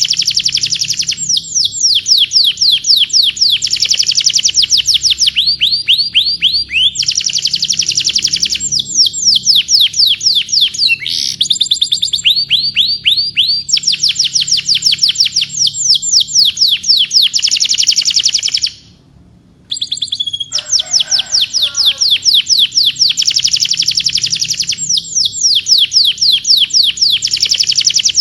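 Domestic canary singing a long, continuous song of rapid trills, each run of quick repeated notes switching to a new trill every second or two. The song breaks off for about a second roughly two-thirds of the way through, then resumes.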